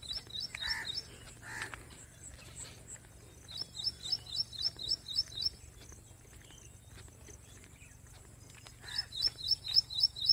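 A bird calling in bouts of quick repeated high chirps, about four a second: one bout at the start, one about three and a half seconds in, and one near the end. A few lower single calls from another bird come early on.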